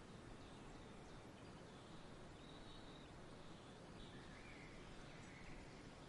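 Faint outdoor nature ambience: a steady soft background hiss with a few distant bird calls, short high chirps from about two and a half seconds in and again past the middle.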